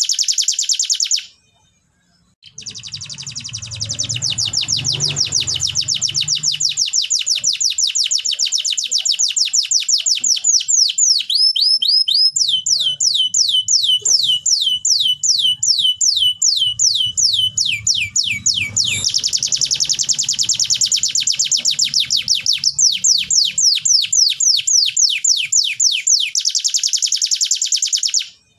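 Domestic canary singing: long trills of rapidly repeated down-slurred notes, changing around the middle to a slower series of notes and then back to a fast trill. The song breaks off briefly about a second in and stops shortly before the end.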